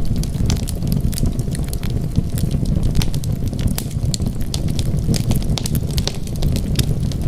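Wood fire burning, with a steady low rumble of flames and many small, sharp crackles and pops of burning wood.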